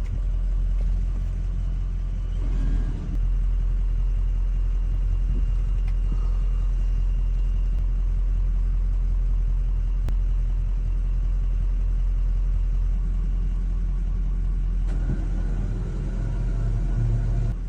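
A motor vehicle's engine running with a steady low rumble, as when towing a boat out of the water on a rope.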